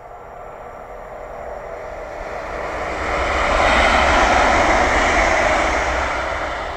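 Train passing at speed: a rushing noise that builds, peaks about four seconds in, then fades.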